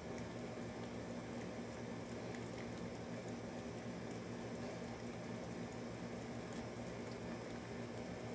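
Steady rain pattering, heard through an open door over the even hum of an air conditioner.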